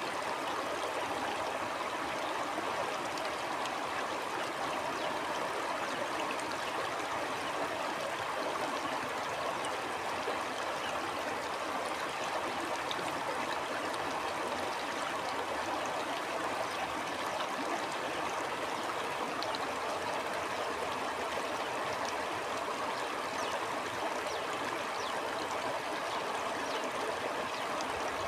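Stream flowing steadily, an even rush of running water with faint scattered trickling splashes.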